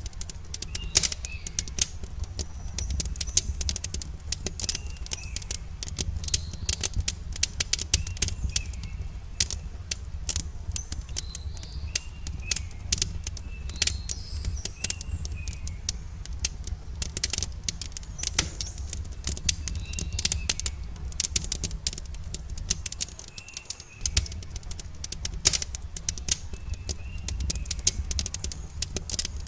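Campfire crackling with a steady run of irregular snaps and pops over a low rumble, while small birds chirp short repeated calls in the background.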